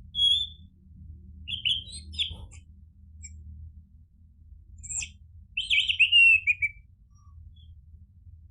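Orange-headed thrush singing in short, separate whistled phrases with pauses between them; the loudest is a longer phrase about six seconds in that falls in pitch.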